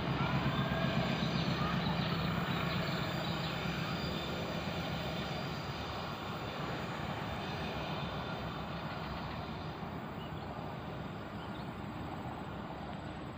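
Diesel-hauled passenger train running along the track, a steady rumble with a low engine hum that slowly fades as it moves away.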